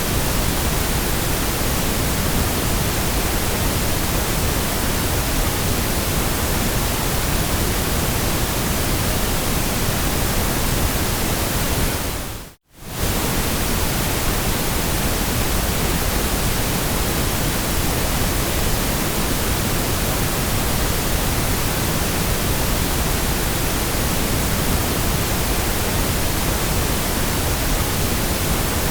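Steady white noise, an even hiss spread across all pitches, that dips briefly to near silence about twelve and a half seconds in and comes straight back.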